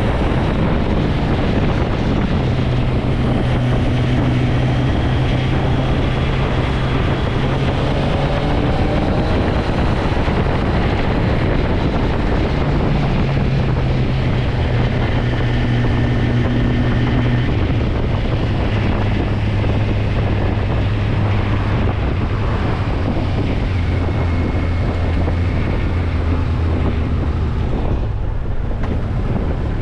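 Motorcycle engine running while riding, its pitch holding steady and then shifting to new levels several times, under steady wind noise on the microphone.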